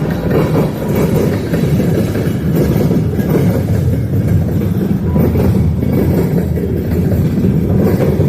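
Freight train cars rolling past at close range: a steady, loud rumble with a clatter of wheels over the rail joints.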